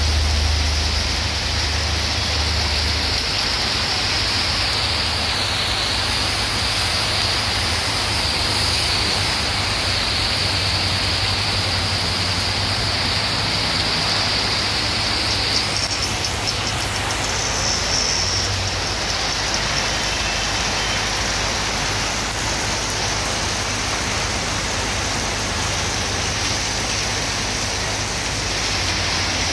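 Heavy rain pouring down on a street, a steady hiss, with motor vehicles driving through on the wet road.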